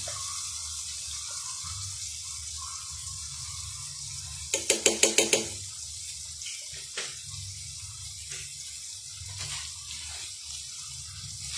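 Prawns, onion and tomato frying in oil in a nonstick frying pan: a steady sizzle. About halfway through, a loud rapid rattle of about seven quick pulses lasts under a second, and a few light knocks follow.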